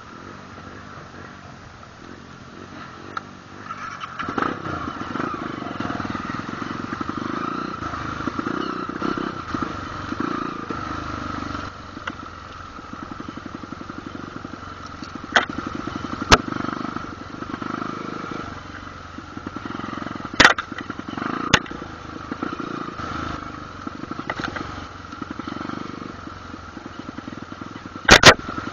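Trail motorcycle engine running as it is ridden on a dirt trail, its sound rising and falling. A few sharp knocks come through now and then.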